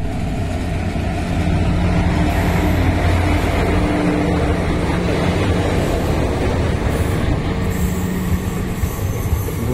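An Indian Railways WAP-4 electric locomotive passes close by, hauling passenger coaches. Its low steady hum is strongest in the first half and eases as the coaches follow, under a continuous rumble of wheels on the rails.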